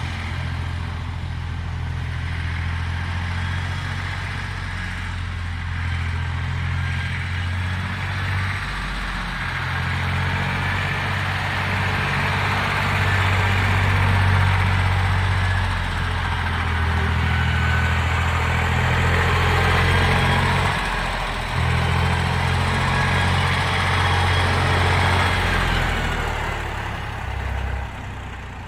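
1962 Porsche 329 tractor's air-cooled three-cylinder diesel engine running steadily, growing louder through the middle, with two brief dips in engine note.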